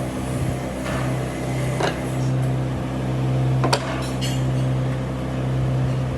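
Electric motor of a workshop machine running with a steady hum, with a few light knocks about one, two and nearly four seconds in.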